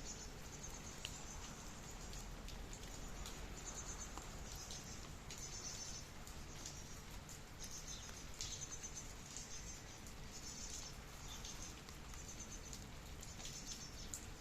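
Insect chirping in short, high pulsed trills that repeat roughly once a second, over a faint patter of falling drops with scattered sharp ticks.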